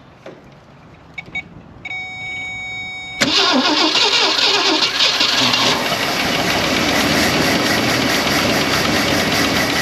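A 1965 Ford Thunderbird's 390 V8 is cranked over and catches about three seconds in, then runs loud and steady, strongest for the first couple of seconds. It is the first time this long-dormant engine has run in decades.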